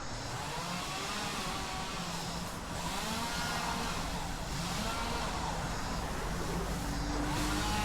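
An engine running, its pitch rising and falling every second or two over a steady low hum.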